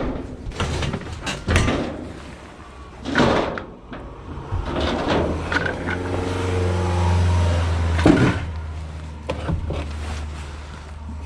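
A few sharp knocks and clunks, then a van's engine running steadily from about halfway through, its pitch shifting a little.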